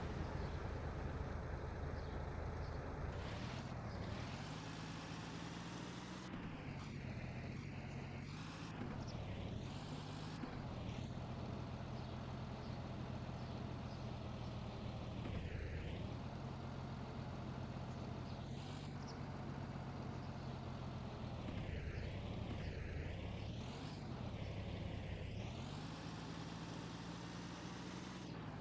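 Tractor diesel engine running under load while pulling a trolley, its engine speed rising and dipping several times.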